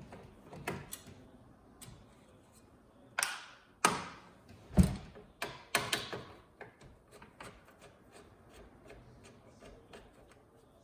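Clicks and clatter of tools and TV parts being handled during disassembly: a run of small ticks, with several sharp clacks and knocks between about three and six seconds in, the loudest a low knock about five seconds in.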